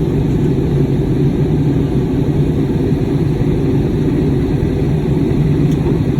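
Steady low rumble of engine and airflow noise heard inside the cabin of an Airbus A320neo in flight, even and unchanging.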